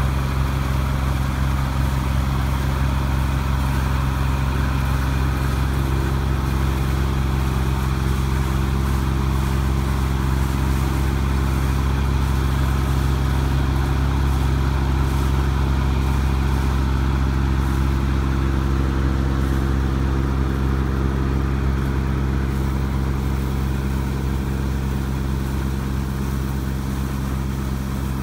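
Rice combine harvester's engine running steadily at a constant working speed, with a broad mechanical hum from the machine.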